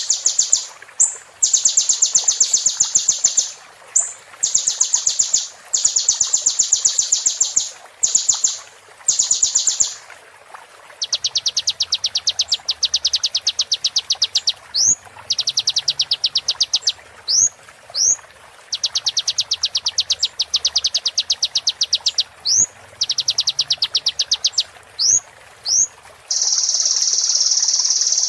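Sunbird song: rapid, high trills in repeated bursts of one to two seconds, with short rising whistled notes slipped between the bursts in the second half and one long unbroken trill starting near the end.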